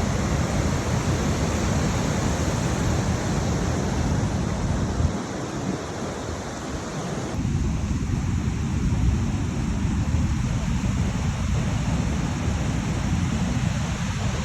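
Wind buffeting the microphone over a steady rushing noise. About halfway through, the sound changes abruptly and the higher hiss thins out.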